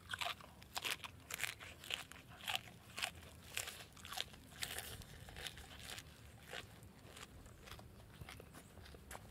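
A person chewing crisp raw leafy greens: sharp, wet crunches about twice a second, growing fewer and softer over the last few seconds as the mouthful is chewed down.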